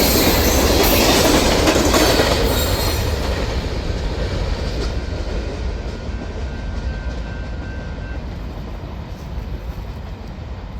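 Railcars rolling past on the track, wheels clicking over the rail joints, loud for the first couple of seconds and then fading steadily as the train moves away, with a faint wheel squeal in the middle.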